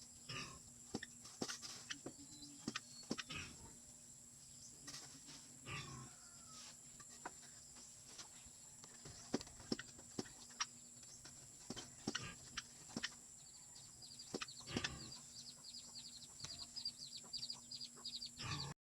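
Faint farmyard sounds: scattered light knocks and clicks, then from about three-quarters of the way in a fast run of high chirping.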